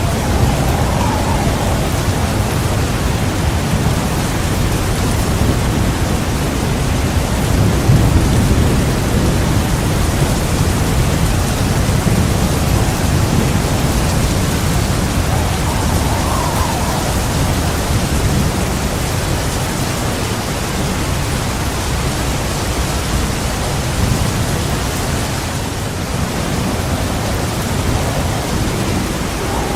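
Heavy, steady rain with a continuous low rumble of thunder beneath it, swelling briefly about 8 seconds in.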